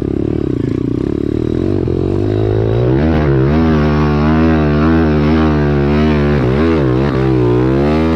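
Pit bike's single-cylinder four-stroke engine revving hard as it is ridden. The pitch climbs about three seconds in and then surges up and down with the throttle.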